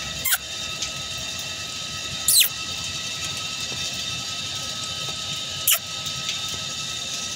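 Puppies play-fighting, giving three short high-pitched squeals: one near the start, one about two seconds in that drops in pitch, and one near the middle. A steady high-pitched drone runs underneath.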